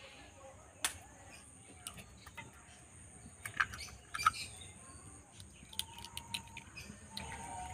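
Hen's eggs tapped against a steel knife blade and broken open over a steel tin: a few sharp clicks, the loudest about four seconds in. Birds chirp in the background.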